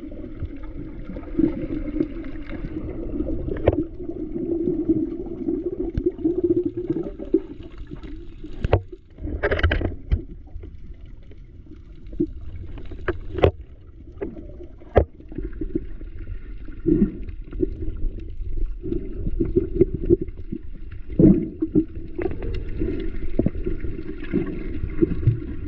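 Water sloshing and gurgling as a snorkeler swims, with scattered sharp clicks and splashes and a louder splash about ten seconds in.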